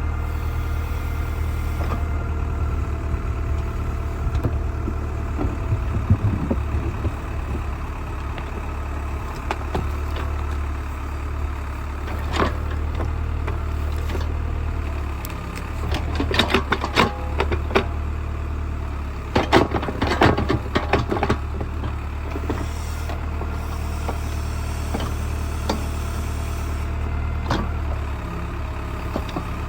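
Old tractor backhoe's engine running steadily as it digs out a ditch, with two bursts of clattering knocks about halfway through.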